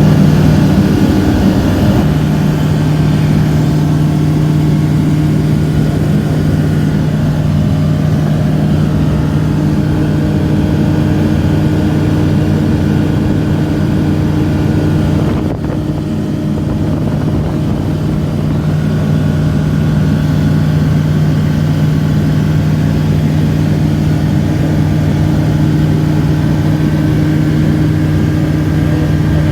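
Rotax 912 100 hp four-cylinder flat engine and propeller of a light aircraft running steadily in flight, a constant drone that dips briefly about halfway through.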